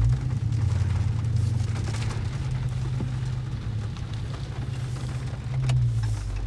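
A car's engine humming low under light driving load, heard inside the cabin, with faint rain pattering on the car. The engine hum swells briefly near the end.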